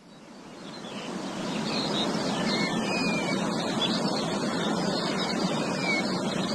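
Several small birds chirping and whistling in short high calls over a steady rushing background noise. The background fades in over the first two seconds.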